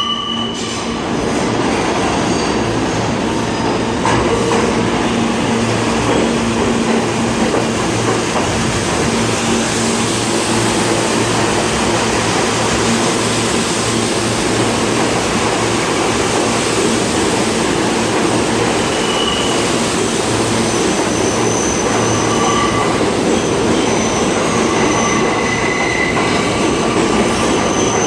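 R160 subway train pulling into a station: a steady rumble of wheels on rail with some clickety-clack, and high wheel squeals that come and go, more often in the second half.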